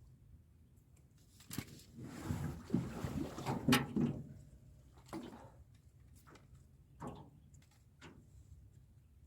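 Knocks on a small boat and a short rush of splashing water, loudest about two to four seconds in, then a few single knocks, as a fish trap is handled at the boat.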